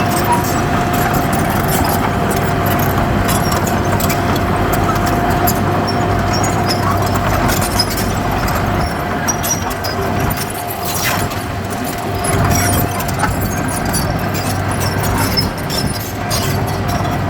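Heavy diesel earthmoving machinery running steadily, with a constant whine over the low engine drone and scattered clicks and clanks.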